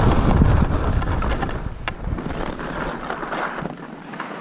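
Wind buffeting the microphone while skiing, strong at first and easing off about halfway through, with a hiss of skis sliding on snow and scattered sharp clicks and scrapes.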